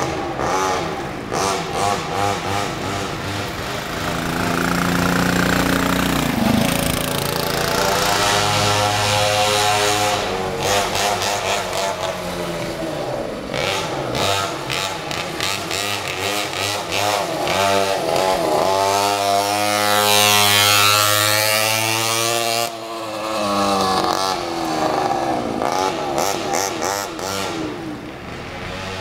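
Small mini bike engines running and revving as the bikes ride around, the pitch rising and falling with the throttle. About two-thirds of the way in, the loudest moment comes as a bike passes close by, then drops off suddenly.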